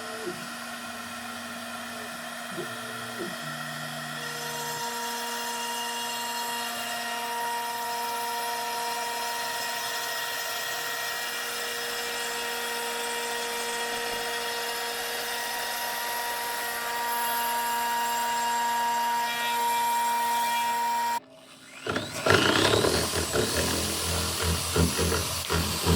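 CNC router spindle running with a steady whine of several pitches as its half-inch ball end mill cuts a juice groove into a buckeye board. About 21 seconds in the sound cuts off abruptly, and a different power tool starts up with a rising whine.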